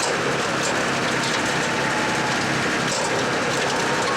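A motorcycle engine idling steadily under a constant hiss of noise.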